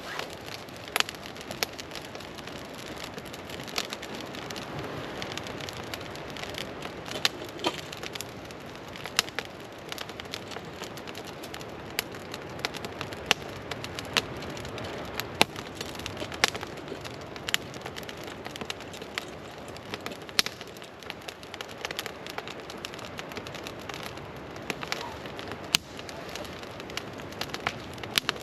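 Wood campfire, freshly lit with firelighters, burning with a steady hiss and many irregular sharp pops and crackles.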